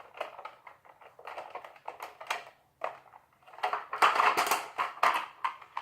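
Plastic toy truck being handled: its hinged plastic parts clicking shut and open, with a denser stretch of rattling and scraping about two-thirds of the way through.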